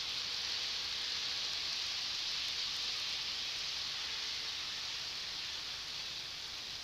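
Model train running along the layout track: a steady rolling hiss that swells a little mid-way and eases off near the end.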